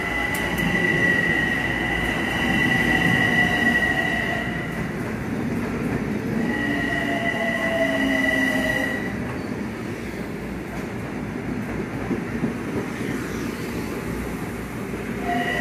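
Metro-North electric commuter train moving with a steady rumble and a high, steady squeal that comes and goes: loud through the first few seconds, again midway, then drops away while the rumble carries on.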